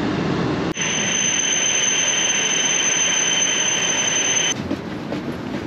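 Rumble of a train carriage on the move, then after a cut a steady high-pitched whine over a hiss from a Shinkansen standing at the platform. This cuts off abruptly about four and a half seconds in, giving way to quieter train noise with light clicks.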